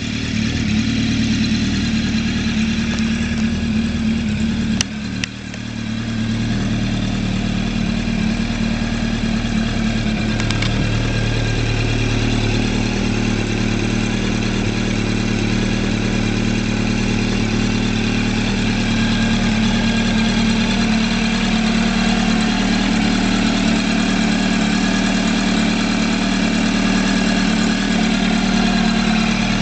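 Suzuki Katana 600 inline-four motorcycle engine idling through a D&D full aftermarket exhaust, with a Dynojet jet kit fitted. The idle holds steady apart from a brief dip in level with a couple of sharp clicks about five seconds in.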